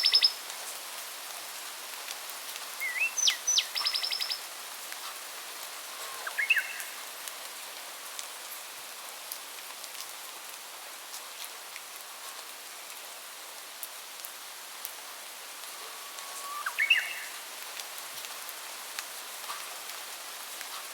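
Songbirds singing a few short phrases in a forest, one a rising note followed by a fast trill, over a steady background hiss with faint scattered ticks.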